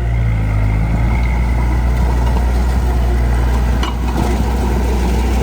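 Heavy diesel engine of earthmoving equipment running steadily, with a short sharp click about four seconds in.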